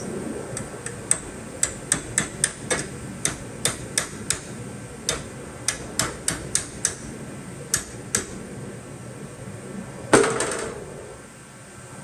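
A hammer tapping metal: about twenty quick, irregular sharp strikes over the first eight seconds, then one louder hit with a short noisy burst about ten seconds in.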